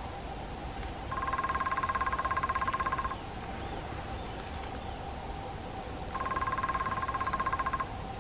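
Woodpecker drumming: two rapid rolls of even strokes, each lasting about two seconds, the first about a second in and the second near the end. The strokes ring with a hollow, wooden tone.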